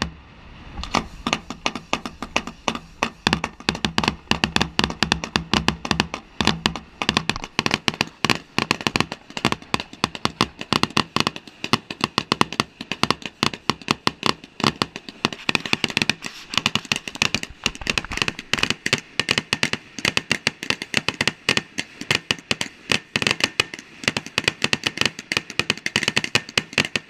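Fireworks display: a fast, continuous barrage of sharp bangs and cracks, many a second, with no let-up.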